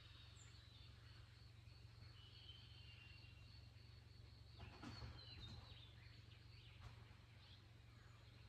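Faint wild birds calling: thin, high held whistles, with a cluster of short downward-sliding calls about halfway through.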